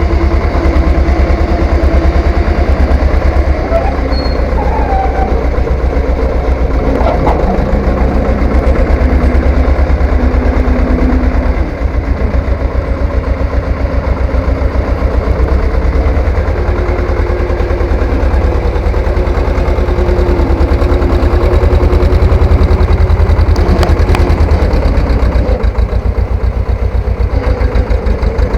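Three-wheeled tractor's engine running with a loud, even low pulsing that continues steadily, dipping briefly about twelve seconds in.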